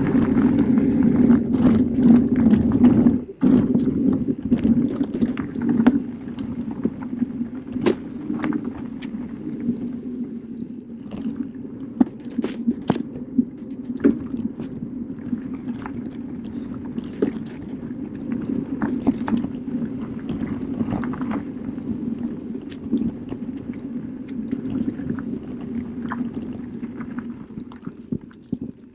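Specialized Turbo Kenevo SL electric mountain bike rolling along a forest trail: a steady rumble of tyres with frequent sharp knocks and rattles over bumps. It is loudest in the first few seconds, dips for a moment, then runs on slightly quieter.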